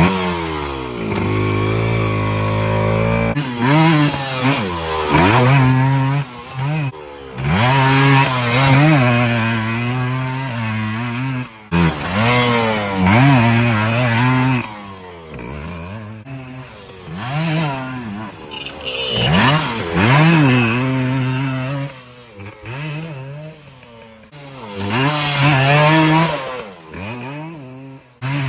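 Motocross bike engines revving, their pitch climbing and dropping over and over, roughly every second or two.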